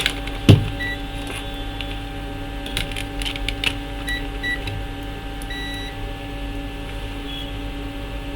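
Multimeter probes clicking on a laptop motherboard while the meter gives short, high, single-pitch beeps: three brief ones and one longer one near the middle. A loud click comes about half a second in, over a steady electrical hum.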